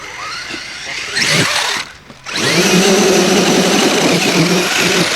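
Radio-controlled off-road model car's motor and drivetrain running hard under throttle: a short burst about a second in, then a steady, loud high-revving whine from about two seconds in.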